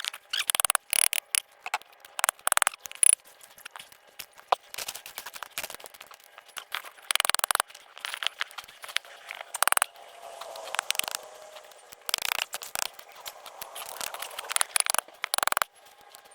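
Sped-up time-lapse audio of work levelling and laying concrete blocks: a rapid, chopped jumble of scrapes, clicks and knocks with almost no low end.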